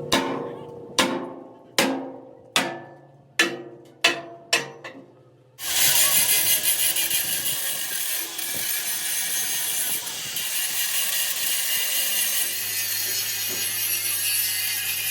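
A hammer striking steel plate seven times, each blow ringing out, the blows coming a little faster toward the end. About five and a half seconds in, a power grinder starts grinding steel with a steady, loud rasping.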